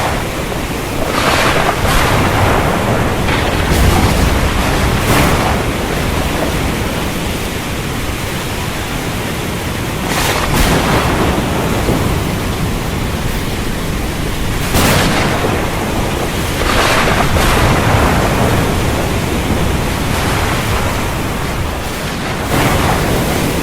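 Storm wind blowing in a steady, loud rush of noise, with louder surges every few seconds.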